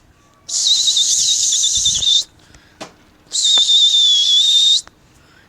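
Two long, shrill whistle blasts, each about a second and a half, from a pigeon keeper urging his flock to keep flying. The first warbles in pitch; the second is steadier and sags slightly.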